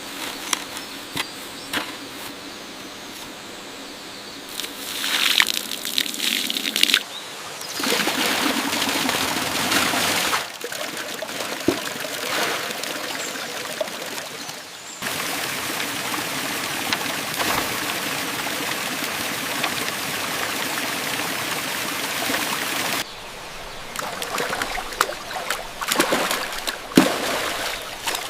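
Water running and trickling in a few separate stretches, each starting and stopping abruptly, with scattered light knocks and taps between them.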